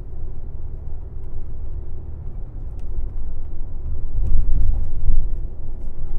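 Coach engine and tyre rumble heard from inside the cabin of a moving airport bus, a steady low drone that swells louder about four seconds in, with a few faint rattles.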